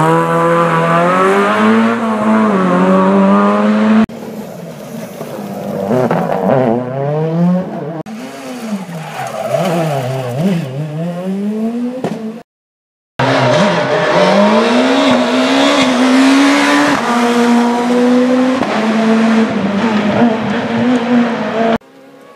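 Rally car engines revving hard, pitch climbing and dropping sharply through gear changes. The sound comes in several short clips that change abruptly, with a brief gap of silence a little past the middle.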